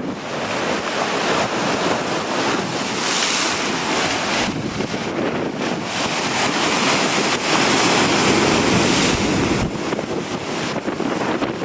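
Strong gusting wind blowing across the microphone, mixed with the rush of surf; the gusts swell and ease, strongest about eight seconds in.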